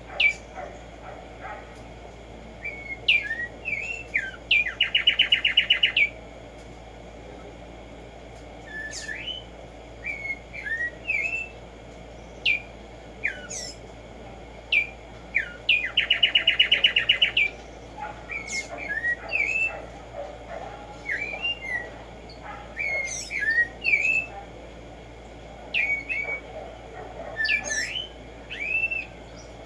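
Black-striped sparrow singing: scattered short slurred whistles, twice breaking into a fast, even trill that lasts over a second, about five seconds in and again around sixteen seconds.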